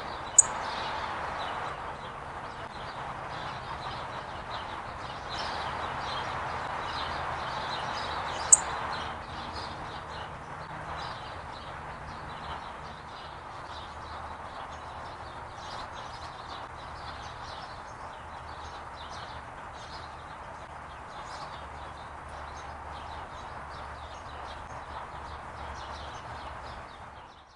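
Small songbirds giving short high chip notes over a steady outdoor hiss, with two loud sharp chips, one just after the start and one about eight seconds in.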